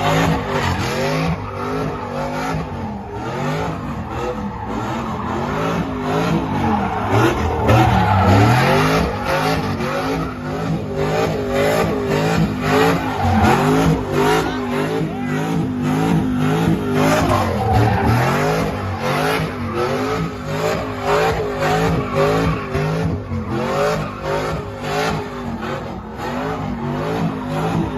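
Vehicle engines running and revving, with tire squeal: pitched sounds that glide up and down over and over.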